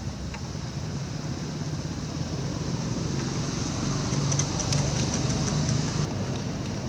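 Steady low rumbling outdoor background noise, with a few faint, short high ticks about two-thirds of the way through.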